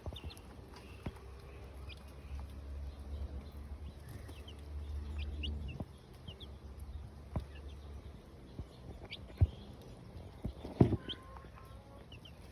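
Silkie chicks peeping in short high chirps, scattered throughout, while the broody mother hen clucks softly and low. A few sharp knocks sound along the way.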